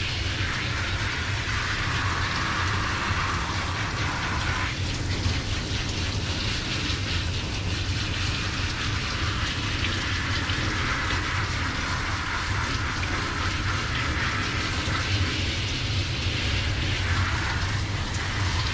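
Water running and spraying steadily, over a low steady hum.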